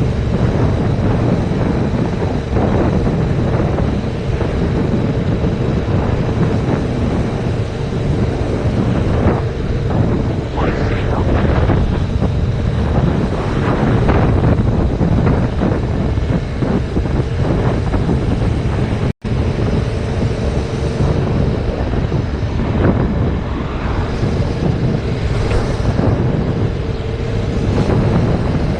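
Heavy wind buffeting on a GoPro microphone while riding a 2019 Yamaha MT-07 motorcycle at speed, a steady loud rumble that drowns out the engine. The sound drops out for an instant about nineteen seconds in.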